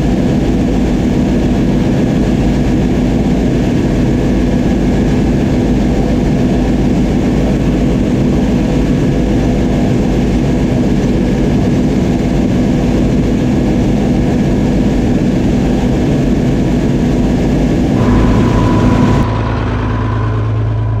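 Oliver 7300 combine running steadily at working speed, its engine and threshing machinery making a loud, constant hum. Near the end the sound changes abruptly to a different, lower engine tone.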